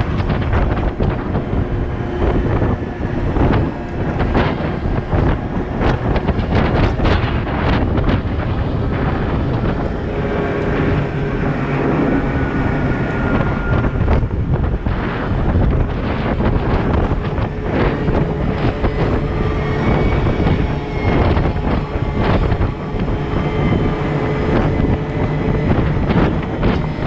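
Heavy diesel machinery running steadily, with wind buffeting the microphone. Faint thin squeals come and go in the middle stretch.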